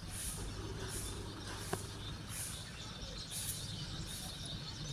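Faint high chirping that repeats roughly once a second over a steady low hum, with one sharp click a little under two seconds in.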